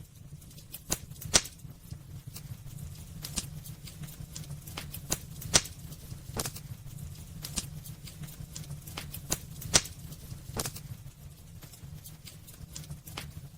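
Wood fire burning in a fireplace: irregular crackles and pops, with a few louder snaps, over a steady low rumble.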